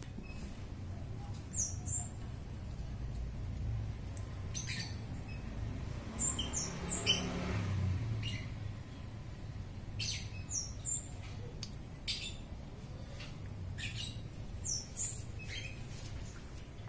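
Small birds chirping: short, high, quickly sweeping notes in little clusters every few seconds, over a steady low rumble.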